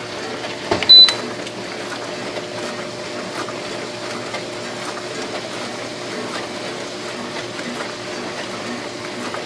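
Dishwasher running, its motor and pump humming steadily with water spraying inside. A sharp click sounds about a second in.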